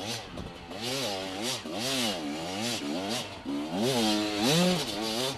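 TM enduro motorcycle engine revving hard and backing off over and over, its pitch climbing and dropping about once a second, with the longest climb about four seconds in, heard from the rider's helmet camera.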